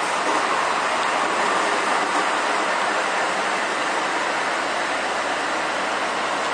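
NI Railways CAF diesel multiple unit arriving along the platform at close range: a steady rushing rumble of wheels and underfloor diesel engines, with a faint low hum coming in about five seconds in.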